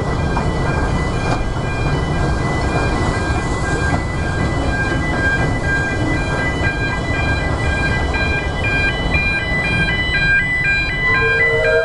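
Narrow-gauge train carriage running slowly, a steady low rumble, with a steady set of high electronic tones over it that break into alternating beeping notes near the end.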